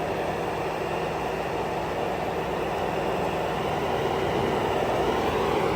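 An engine running steadily, growing slightly louder toward the end.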